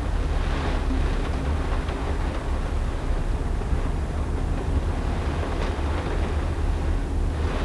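Steady low rumble and hiss of a vehicle driving on a rain-soaked road in a typhoon downpour. The hiss of water swells briefly about half a second in and again near the end.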